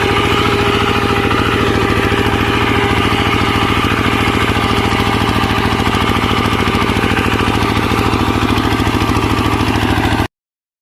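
Small tractor engine running steadily with a rapid, even firing beat; the sound cuts off abruptly about ten seconds in.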